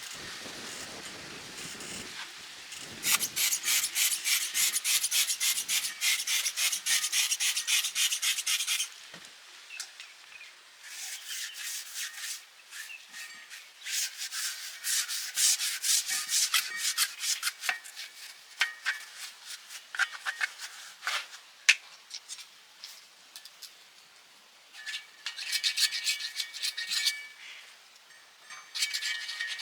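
Rusted metal being rubbed down by hand with an abrasive, in rapid back-and-forth strokes that come in three bouts with short pauses and lighter scrapes between.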